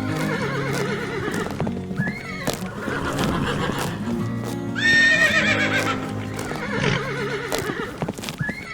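Background music with an animal crying out three times over it: a short rising-then-falling call about two seconds in, a longer, louder one near the middle, and another near the end.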